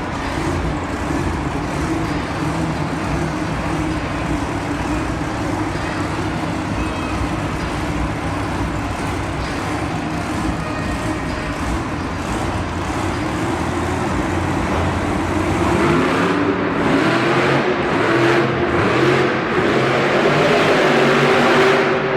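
Monster truck engine running steadily, then revving from about fifteen seconds in, its pitch rising and falling and growing louder toward the end.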